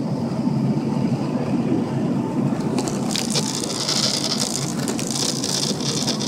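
Cabin noise inside a Boeing 767-300ER during takeoff: a steady low rumble of engines and airflow, with a higher rushing hiss that comes up about three seconds in.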